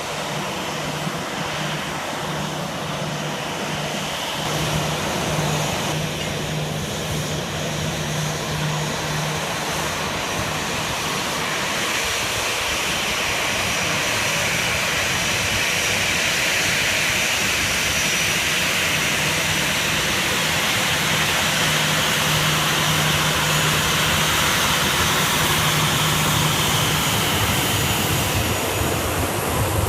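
Boeing 737-800 jet engines running, a steady roar that slowly grows louder, with a low hum coming and going.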